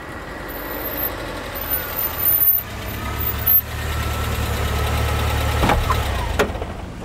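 A car engine running, growing louder, then cutting off with a click about six seconds in.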